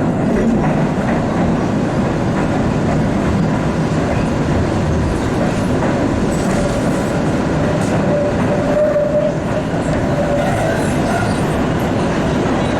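Steady rumble and rail noise heard from inside an MBTA Blue Line Siemens 700 Series subway car, with a faint steady tone about eight seconds in.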